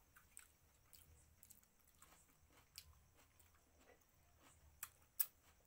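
Close-up mouth sounds of eating curry and rice by hand: faint wet chewing clicks and lip smacks, with two sharper smacks near the end.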